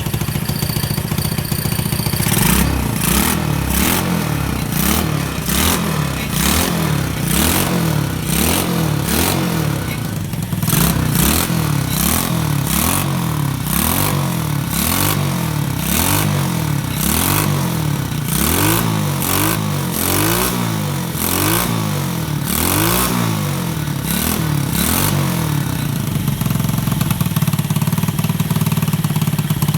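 Baimo 157FMI single-cylinder four-stroke engine idling, then revved up and down over and over, about once a second, for most of the time, before settling back to a steady idle near the end.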